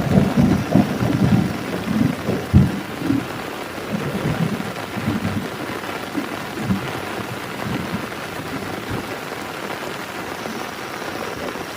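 Heavy rain falling steadily on a tent, with thunder rumbling through the first few seconds and a sharp crack about two and a half seconds in. The rumble then dies down, leaving the steady rain.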